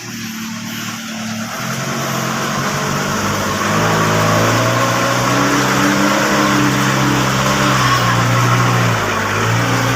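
Old dump truck's engine running and revving, climbing in level over the first few seconds and then held at high revs, its pitch stepping up and down.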